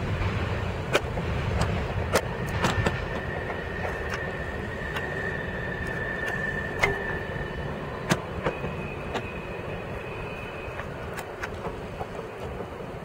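Norfolk Southern train cars rolling past on the rails: a steady low rumble with irregular sharp clanks and clacks, and a thin steady high-pitched squeal twice, the first about two seconds in, the second past the middle. The sound eases slightly toward the end.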